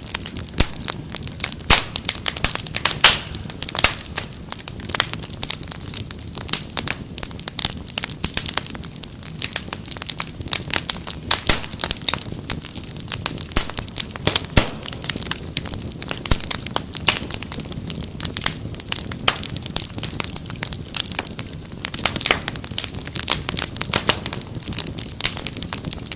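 Wood fire crackling and popping steadily in a fireplace: many irregular sharp pops over a low rumble of burning.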